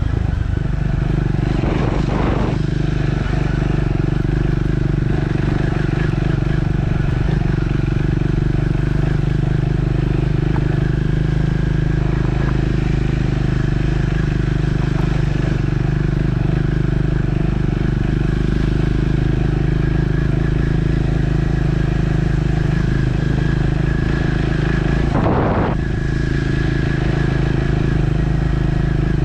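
Triumph Scrambler 400 X's single-cylinder engine running at a steady, even speed while riding. The note holds nearly constant, with two brief breaks, about two seconds in and near the end.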